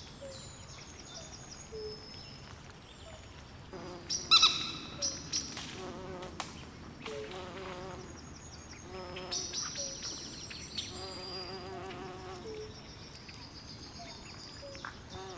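Swamp ambience: a chorus of frogs and insects calling, with repeated short high chirps and lower pulsed trilling calls over a faint hiss. A louder call stands out about four seconds in.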